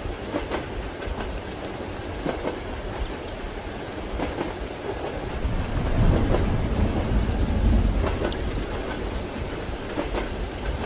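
Steady rain with the periodic clack of train wheels over rail joints, and a low rumble that swells about six seconds in and fades by eight.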